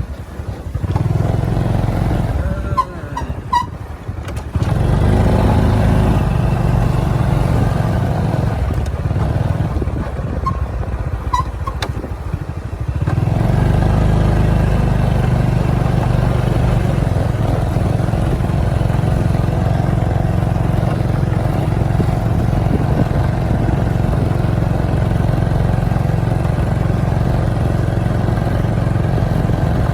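Motorcycle engine running while riding along a road. The engine note shifts a few times early on, then holds steady for the rest.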